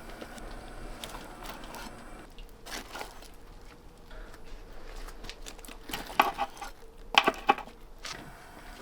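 Scattered light knocks and rustling from things being handled, with the loudest short bursts of clicks about six seconds in and again about seven seconds in.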